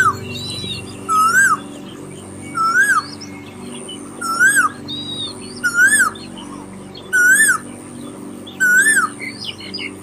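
A bird calling over and over, about every one and a half seconds: each call a short whistled note that rises and then drops. Soft sustained background music plays beneath.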